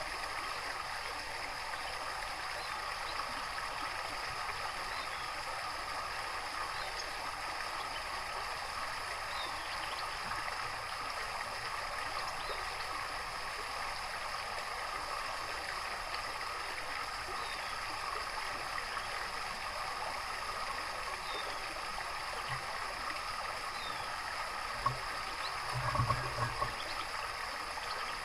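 Steady running water, like a small stream or garden water feature, with faint short bird chirps here and there. A few dull thumps near the end.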